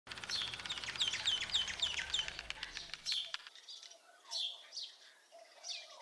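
Wild birdsong: a quick run of repeated high, down-slurred notes, about four or five a second, for the first two seconds, followed by scattered single calls.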